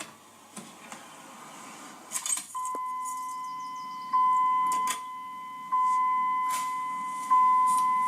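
A steady electronic tone sounding from about two and a half seconds in, with its level jumping up again about every one and a half seconds, after a few faint clicks.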